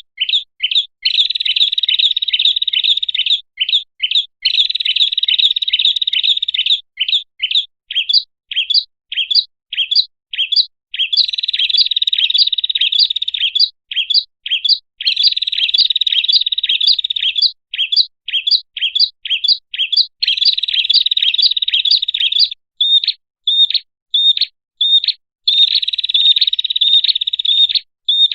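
Prinia (prenjak) lure call: long bursts of fast, sharp, high chirping alternate with runs of separate single chirps a few per second, repeating with short pauses. It is the call played to draw prenjak in.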